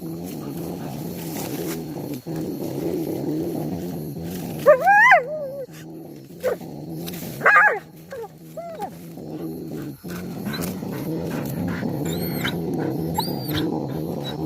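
A dog-like animal growling continuously in a low, rough rumble, broken by a few short yelping whines that rise and fall in pitch. Two faint high whistles come near the end.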